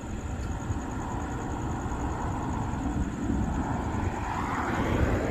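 Road traffic: a vehicle passing by, its noise building to a peak near the end over a steady low rumble.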